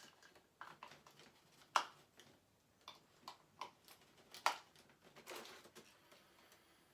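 Scattered light clicks and taps of hard statue parts being handled, with two sharper knocks about two seconds and four and a half seconds in.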